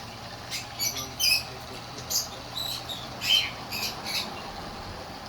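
Birds calling in a string of short, irregular squawks and chirps, about ten over a few seconds.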